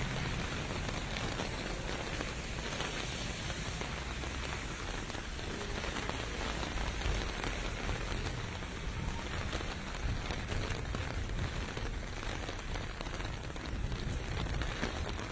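Steady rain falling on pavement, with a low rumble underneath that swells and eases.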